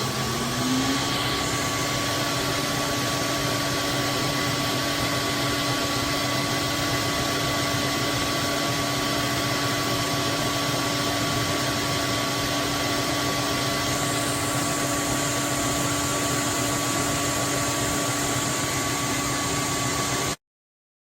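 Roborock F25 GT wet-dry vacuum mop's motor running steadily: a hissing rush of air with a steady whine that rises in pitch as the motor spins up just after the start. The sound cuts off suddenly near the end.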